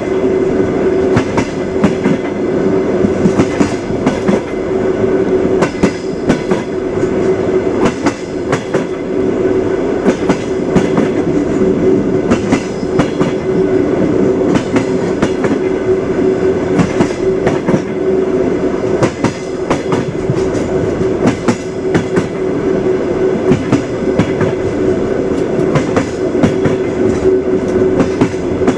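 Train wheels clattering over the rail joints at running speed: a continuous rumble with a steady hum and frequent, irregular sharp knocks.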